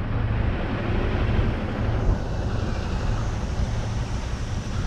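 Truck engine idling steadily, a constant low hum under a noisy hiss.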